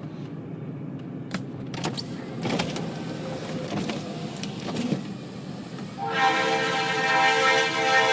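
Diesel freight locomotive's air horn starting to sound about six seconds in, a loud steady chord of several notes. Before it there is a low rumble with scattered clicks from the approaching train.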